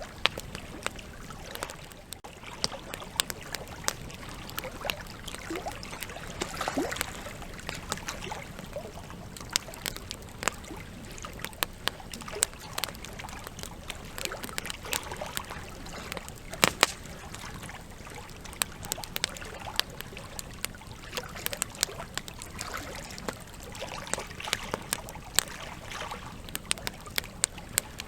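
Wood campfire crackling: irregular sharp pops and snaps of burning logs over a steady hiss of flames, with one louder pop a little past the middle.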